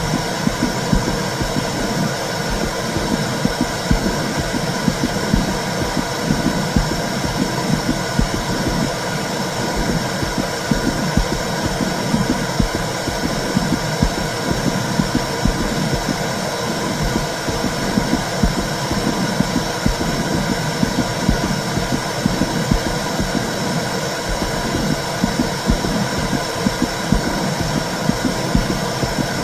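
Womb sound for soothing a baby: a steady, low whooshing rumble with a constant hiss above it and a rapid, uneven pulsing in the bass.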